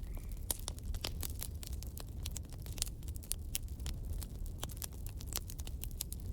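Wood campfire crackling, with many sharp, irregular pops over a steady low rumble.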